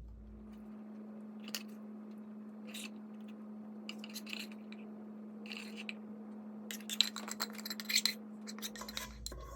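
Metal spoon scraping and clinking against a cooking pot as the last of the biryani is emptied out: scattered taps that bunch into a quick run of clinks about seven seconds in, over a steady low hum.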